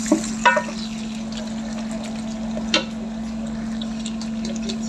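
Squid cooking in sauce in an aluminium pot, a steady sizzling hiss over a constant low hum. A wooden spatula knocks against the pot twice in the first second and once near the three-second mark.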